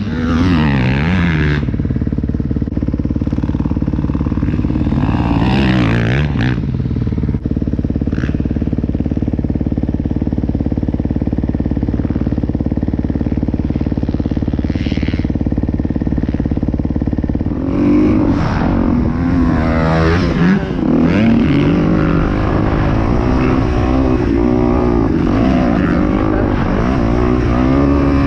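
Kawasaki KX250X four-stroke single-cylinder dirt bike engine being ridden hard, revving up and falling back. About a second in and again around six seconds there are quick rev sweeps, then a stretch of fairly steady throttle, and from about seventeen seconds on rapid rises and falls.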